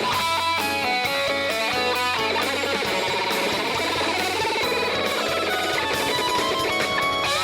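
Live rock band music with electric guitar to the fore, playing quickly changing notes over a steady bass.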